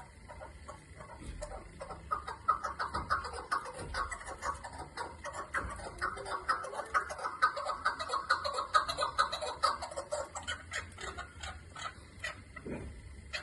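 Chukar partridge calling: a fast run of short clucking notes that builds up, then thins out near the end.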